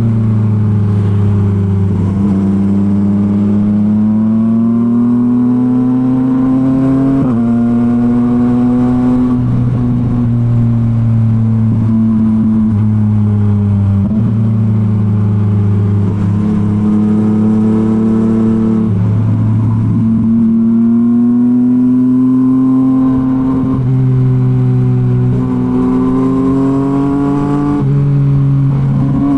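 A Yamaha MT-09's three-cylinder engine breathing through a Revoc SP full exhaust system while the bike is ridden. The engine note climbs over a few seconds and then drops sharply, again and again, as it is revved and shifted.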